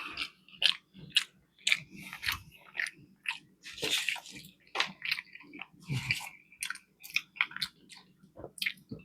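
Close-miked chewing of a fish fillet sandwich: wet mouth smacks and soft crunches at an irregular pace of a few per second.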